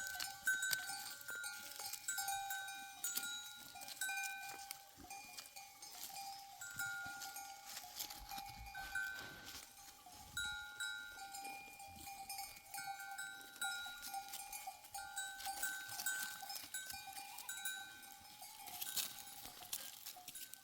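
Livestock bells on a flock, clinking: short ringing notes repeat every second or so, with scattered light knocks.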